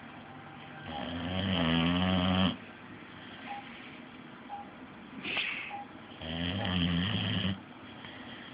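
Boxer dog snoring in her sleep: two long, loud snores about five seconds apart, with a short, sharper breath sound just before the second.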